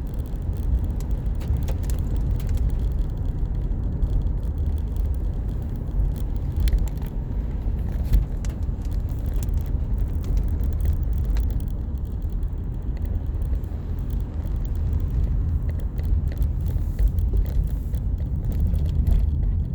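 Car driving: a steady low rumble of road and engine noise, with scattered light ticks.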